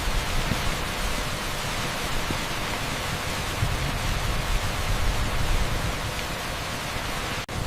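Torrential rain pouring onto an asphalt street: a dense, steady hiss with a churning low rumble underneath. It cuts out for an instant near the end.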